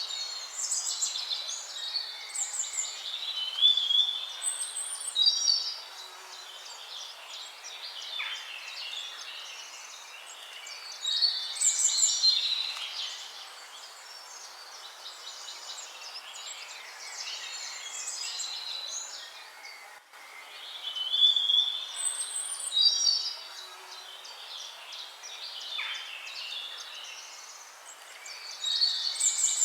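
Songbirds singing, several birds overlapping in chirps and warbled phrases that swell into louder bursts every few seconds over a faint background hiss.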